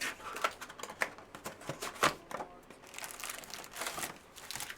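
Foil trading-card pack wrapper crinkling and tearing as a pack is handled and ripped open, a run of irregular crackles.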